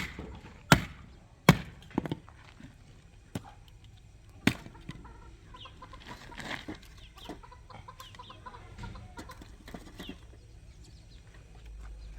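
Chickens clucking, with a string of sharp knocks spread over the first five seconds, the loudest right at the start and at about 0.7 and 1.5 seconds in.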